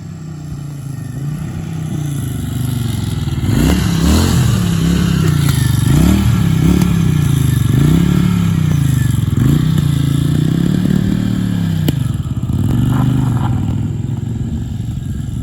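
Honda SilverWing GL500 motorcycle engine running and being revved up and down over and over, its pitch rising and falling several times. It settles back toward idle near the end.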